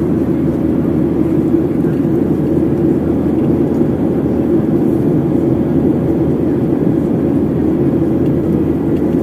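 Steady roar of a Boeing 737-700's CFM56-7B jet engines and rushing airflow, heard inside the passenger cabin in flight. The deep, even noise does not change in pitch or level.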